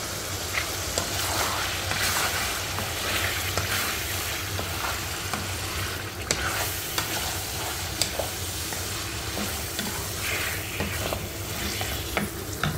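Boneless chicken pieces sizzling in oil in a karahi while a wooden spatula stirs and turns them, with a steady hiss and scattered light clicks of the spatula against the pan.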